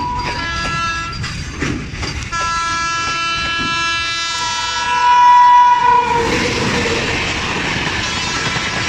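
Electric locomotive horn: a short blast, then a long blast of about four seconds, followed by the rushing clatter of the train running past.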